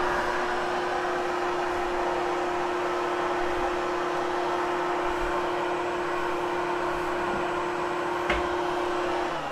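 Hoover Hushtone vacuum cleaner running steadily as it grooms the pile of a freshly cleaned carpet, with a steady motor hum. A click about eight seconds in, and the hum stops just at the end.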